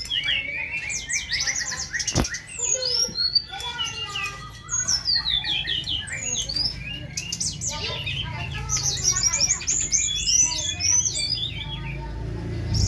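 Songbird singing a fast, varied song of quick whistled notes, rapid trills and chirps, with hardly a pause.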